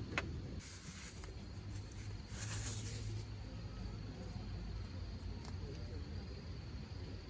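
Quiet outdoor ambience with a low rumble and a faint steady high tone. There is one sharp click just after the start and two short bursts of hiss, about one second and three seconds in.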